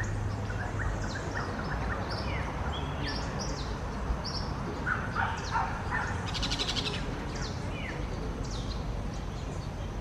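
Wild birds calling: many short, sharp chirps and whistled notes overlapping, with a buzzy, rattling call about six and a half seconds in.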